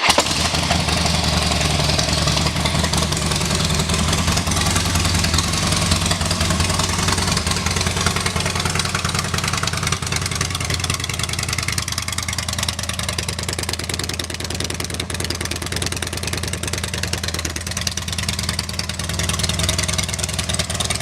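2007 Harley-Davidson Dyna Street Bob's 96-cubic-inch V-twin running steadily through an aftermarket Rinehart exhaust.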